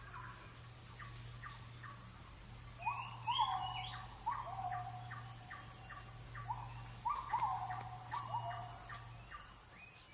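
Oriental magpie-robin (kacer) singing: a run of short whistled notes repeated a few times a second, many of them sweeping upward, busiest from about three seconds in. A steady low hum runs under it.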